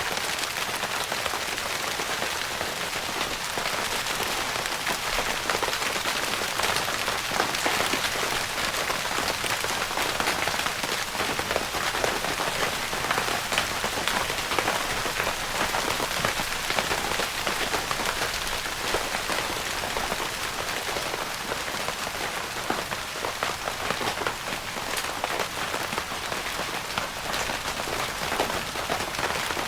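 Steady rain pattering on a tent's fabric roof, a dense even hiss of many small drop taps.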